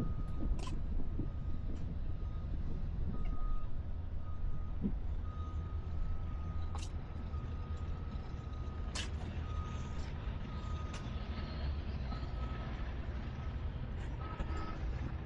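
Steady low rumble with a thin, steady high whine running through it, broken by short gaps, and a few sharp clicks.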